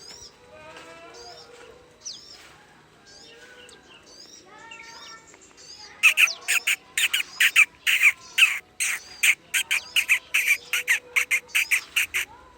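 Prenjak (a prinia) calling: soft chirps at first, then about halfway through a loud, rapid run of sharp repeated calls, about four a second.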